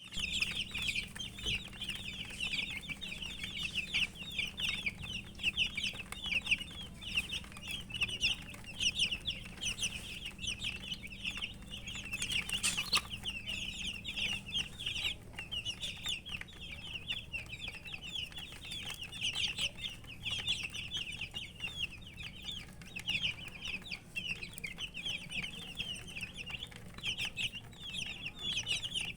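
A brood of baby chicks peeping continuously: a dense chorus of high, rapid cheeps from many birds at once.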